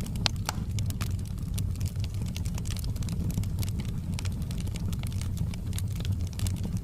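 Wood fire in a fireplace crackling, with many small sharp pops at irregular intervals over a steady low rumble.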